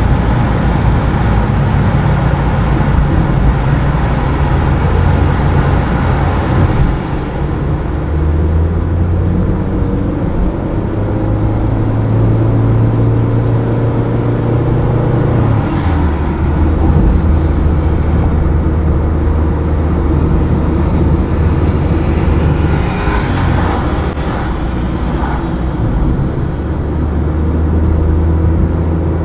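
Car engine running under way with tyre and road noise, heard from the car being driven. The engine's pitch shifts a few times, dropping clearly about halfway through.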